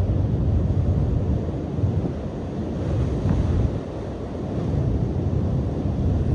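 Strong wind buffeting the microphone with a deep, gusty rumble, over surf washing on the shore. The gusts ease a little past halfway and then pick up again.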